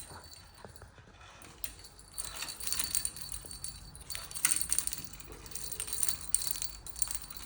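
Caique parrot's toy jingling and rattling in irregular bunches as the bird plays with it, starting about two seconds in.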